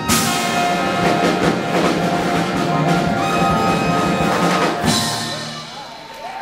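Live big band playing hot swing-era jazz, with brass and drums holding long tones. A sharp accented hit lands about five seconds in, then the sound rings out and fades, like the close of a tune.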